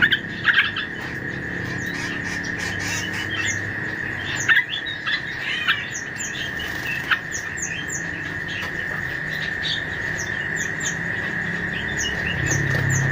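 Small songbirds chirping in a bird-lure recording for fruit-eating birds: many short, sharp chirps and quick high down-slurred notes, a few louder calls in the first second and again around the middle, over a steady high-pitched hum.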